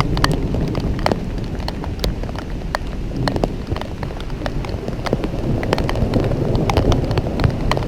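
Rain during a thunderstorm, with many irregular sharp drop impacts close to the microphone over a steady low rumble.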